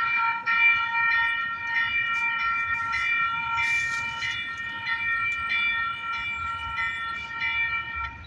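Light rail train horn sounding one long, steady, high-pitched blast of about eight seconds, cutting off near the end.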